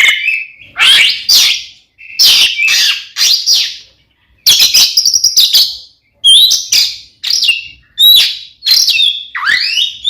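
Oriental magpie-robin (kacer) singing loudly in 'fighting' mode, a burst of rich, varied phrases every second or two. Clear whistled notes sliding in pitch mix with harsh scratchy notes, with brief pauses between phrases. This is the aggressive full song used to provoke rival males.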